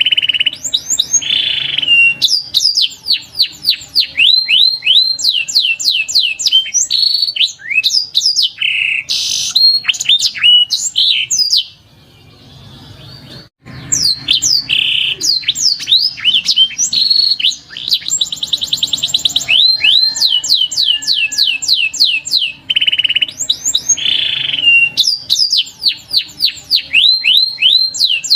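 Domestic canary singing: fast rolls of repeated downward-sweeping whistled notes, with a rapid buzzy trill past the middle and a short pause about twelve seconds in.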